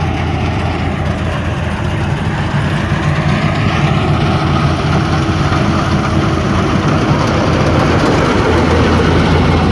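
Engine of a rice harvesting or threshing machine running steadily with a strong low hum.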